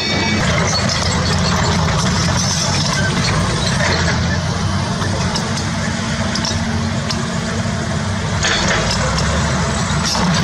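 Diesel engine of heavy earthmoving equipment running steadily, a constant low hum with machinery noise over it.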